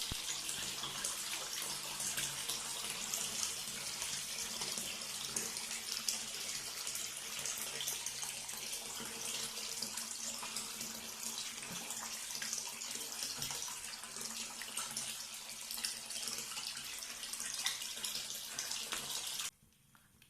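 Water running steadily from a tap, cut off suddenly near the end.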